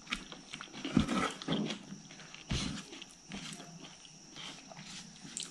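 Close-miked eating sounds: wet chewing and lip smacking while rice and curry are mixed by hand, with a couple of soft thumps about a second and two and a half seconds in.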